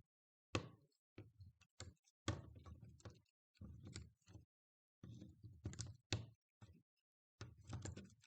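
Hand tools working on a battery pack's plastic housing during disassembly: irregular clicks and knocks with short scraping stretches.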